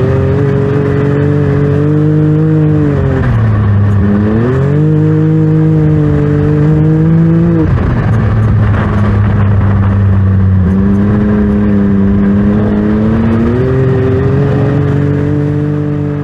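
Side-by-side UTV engine running under changing throttle. The revs dip about three seconds in, pick back up, drop again near the middle, and climb once more toward the end.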